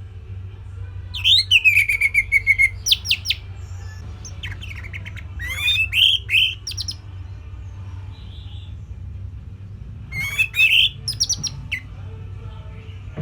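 Orange-headed thrush (anis merah) singing in three short phrases of clear whistles and rapid trills, starting about a second in, around five seconds in and near ten seconds in, over a steady low hum.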